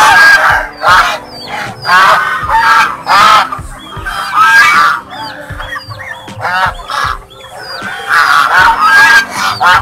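Mute swans calling repeatedly with short, loud calls, about one a second and some in quick pairs. Faint high chirps from smaller birds sound between them.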